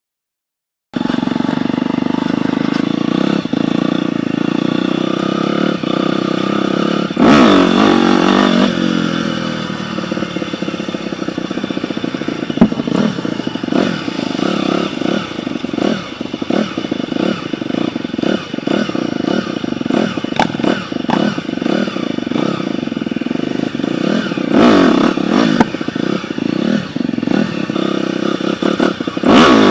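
Dirt bike engine running, starting about a second in. It revs up sharply about seven seconds in, then falls back, with more revs near the end. Many short clatters and knocks run through the middle stretch.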